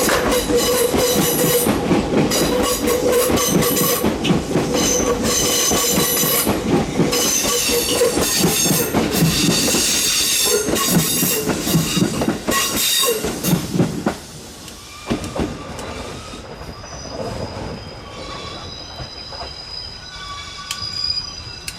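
Electric train passing close by: wheels clacking over rail joints with a high squeal from the wheels on the rails. The sound drops away suddenly about 14 seconds in as the train goes by.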